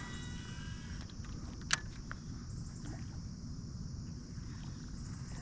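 Creek water running steadily with a low rumble and a high hiss, and one sharp click about a third of the way in.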